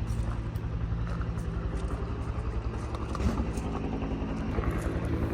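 A motor running steadily: a low drone with a rapid, even throb.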